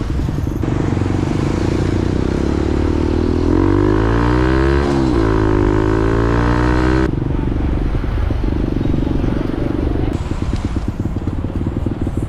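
Motorcycle engine running while riding along the road. Its pitch lines rise and fall in the middle, then the sound changes abruptly about seven seconds in.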